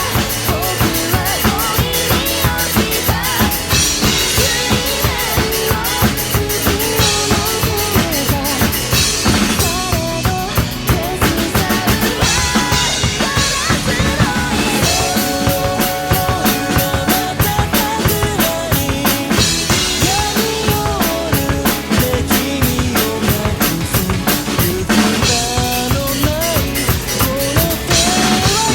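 Drum kit played to a rock backing track: a steady beat of bass drum and snare with dense cymbal strokes over the song's instruments.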